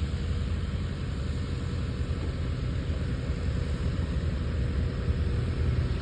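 Cirrus single-engine propeller airplane droning steadily at a distance, with a faint steady engine tone over a low rumble.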